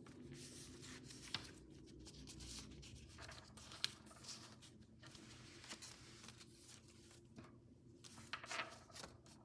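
Faint rustling and creasing of a sheet of paper being folded and squashed into an origami model, with a couple of small sharp crinkles.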